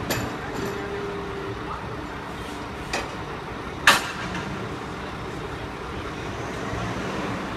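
Garbage truck running steadily, with two sharp bangs about three and four seconds in, the second louder.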